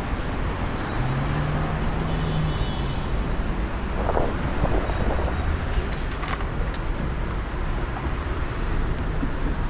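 Steady road traffic noise. A vehicle's engine hum rises briefly about a second in.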